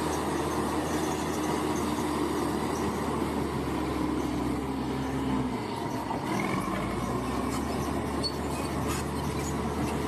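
Bulldozer's diesel engine running steadily under load. Its low note drops and wavers about halfway through, then picks up again.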